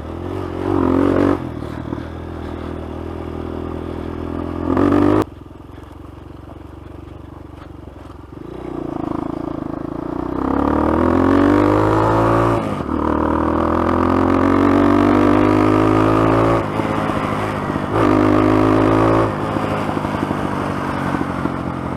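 Dirt bike engine running under way, revving in short bursts and climbing steadily in pitch as it accelerates, with a drop to a lower, quieter running about a quarter of the way in. The engine sound cuts out at the very end.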